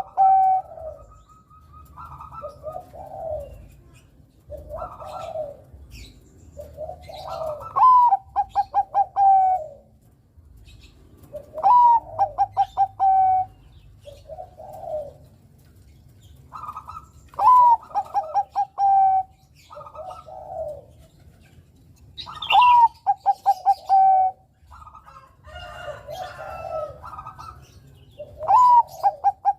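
Zebra dove (perkutut, Bangkok-bred strain) singing. Its phrases repeat about every five seconds, each a quick rising note, a rapid run of short clipped notes, then a held final note. Softer coos come between the phrases.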